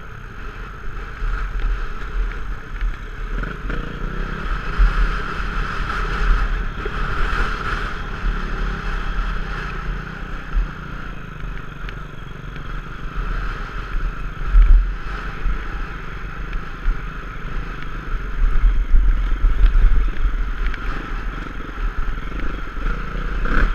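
Dirt bike engine running continuously, with heavy gusty wind buffeting on the microphone.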